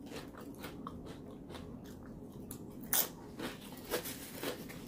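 Close-miked crunching and chewing of a tortilla chip. The soft crackles come irregularly, with a few sharper crunches in the second half.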